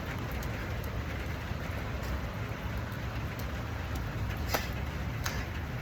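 Steady rain falling, an even hiss throughout, with two short faint sounds near the end.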